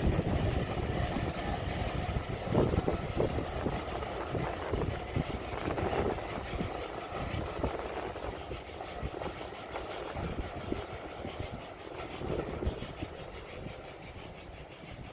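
Steam-hauled train, headed by LNER J27 0-6-0 locomotive 65894, rumbling past and fading into the distance. Wind buffets the microphone throughout.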